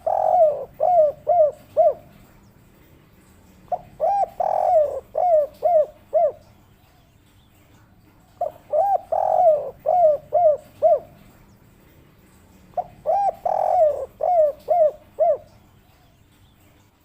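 Spotted dove (derkuku) singing its 'kuk 3' coo song. The phrase repeats about every four and a half seconds: a couple of short notes, one longer drawn coo, then a quick run of short clipped notes.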